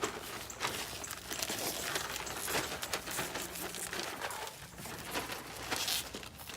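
Irregular scratchy rustling and crinkling with many small clicks, from hands working in the garden.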